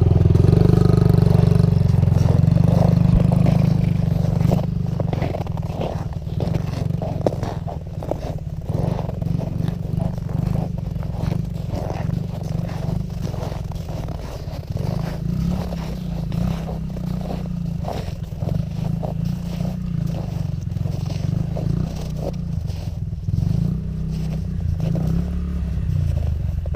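Dirt bike engine running, louder for the first few seconds and then settling lower, with frequent scraping and clattering clicks throughout.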